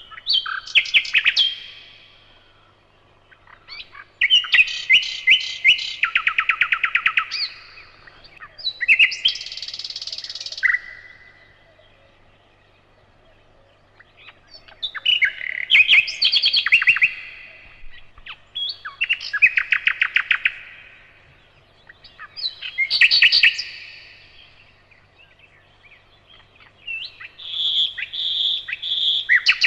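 A nightingale singing in separate phrases of fast repeated notes and rattling trills, about seven phrases with short pauses between them. A faint steady low hum sits underneath.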